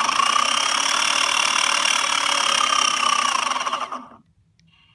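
Boosted Board 2 electric skateboard's belt-driven motor spinning the wheel, a whine with a rapid clicking through it. The pitch rises slightly and falls back before it cuts off about four seconds in. The clicking is an unexplained fault that the owner likens to something caught in the belt.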